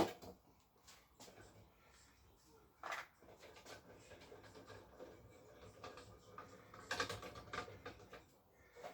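Scattered light clicks and knocks of hand tools and metal parts being handled, loudest right at the start, about three seconds in and around seven seconds in.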